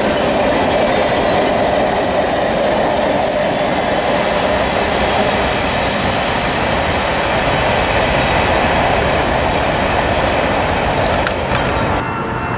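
Train cars rolling past close by: a loud, steady rumble of steel wheels on rail, with a thin high-pitched wheel squeal over it. The sound drops off abruptly near the end.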